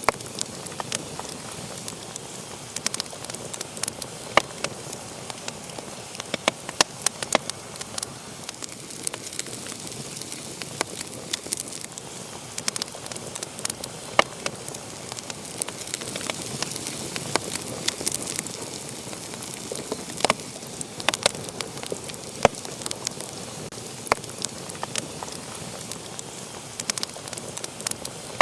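Wood fire burning in a fireplace: a steady soft hiss with sharp, irregular crackles and pops from the burning logs.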